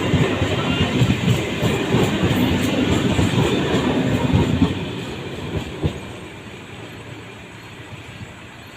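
Electric multiple-unit local train running past, its wheels clattering over the rail joints, then fading away after about five seconds.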